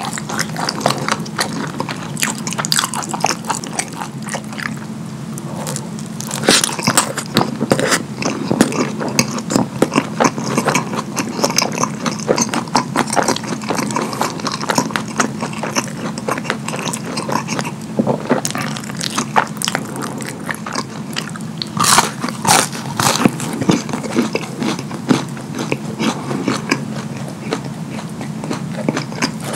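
Close-up wet eating sounds: chewing and lip smacking on fast food drenched in creamy alfredo and cheese sauce, with sticky clicks going on without a break and a few louder bursts of smacking.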